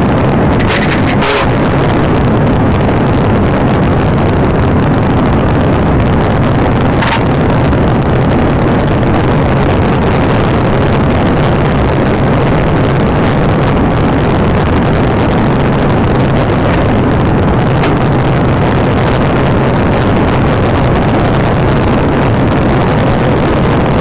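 Police patrol car driven hard in a pursuit: a steady engine drone under loud, even road and wind rush.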